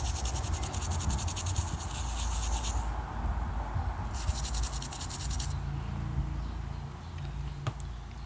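Fast, even scrubbing strokes on a water-damaged phone's circuit board, cleaning off wetness and corrosion: one spell of about three seconds, a pause, then another of about a second in the middle, over a low hum.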